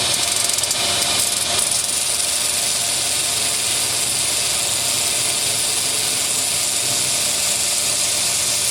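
Belt sander running steadily while grinding down the edge of a 3 mm brass plate, with a loud, even hiss of abrasive on metal over the motor.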